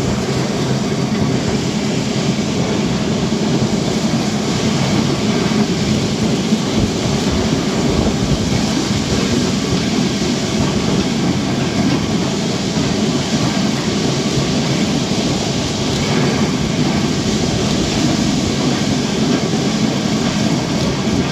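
Lisbon Tram 28 streetcar running steadily along its rails, a continuous noise of wheels on track.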